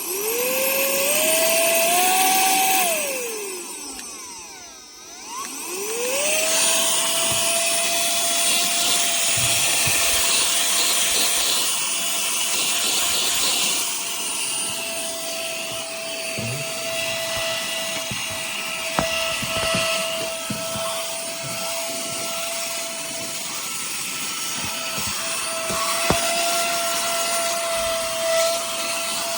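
Tiazhan handheld vacuum's motor spinning up with a rising whine, winding down about three seconds in, then starting again and running steadily with a high whine. Light knocks and rattles are heard over the motor.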